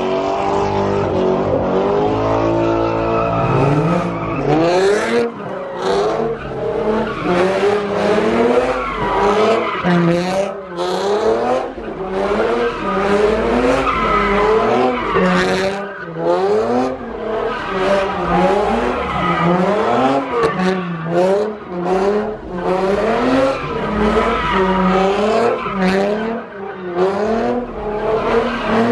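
A car doing donuts, its engine revving up and down about once a second, with tires skidding and squealing on the pavement.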